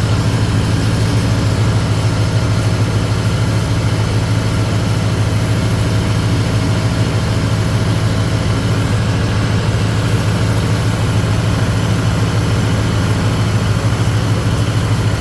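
Car engine idling steadily with the A/C compressor clutch engaged, as the system takes an R134a refrigerant charge through the low side. A constant low hum that doesn't change.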